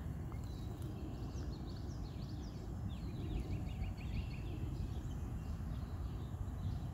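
Birds singing in rapid trills of short, quick notes over a steady low rumble.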